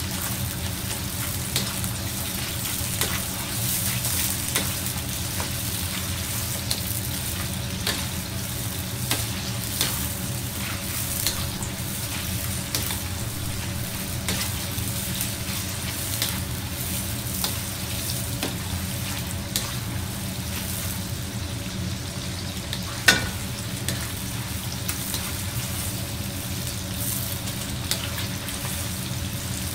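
Sliced pork, wood ear mushroom and vegetables sizzling steadily in a deep pool of oil in an iron wok, being passed through the oil for muxu pork. A ladle stirs them and clicks against the wok now and then, with one louder knock a little past two-thirds of the way through, over a steady low hum.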